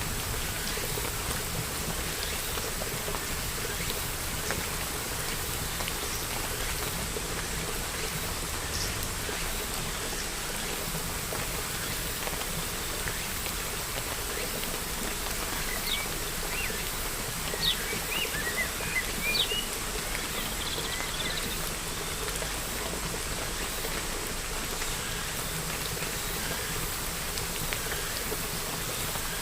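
Steady rain falling and pattering on surfaces, with a few short bird chirps a little past halfway through.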